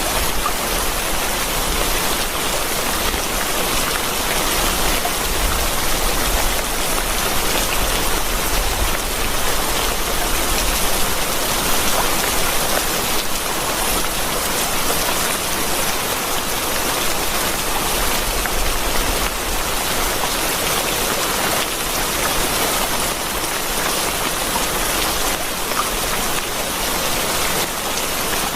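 Steady rain falling, an even hiss of countless drops that does not let up, with a low rumble underneath during the first half.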